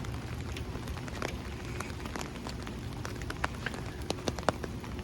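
Steady rain, with irregular sharp drop impacts close to the microphone.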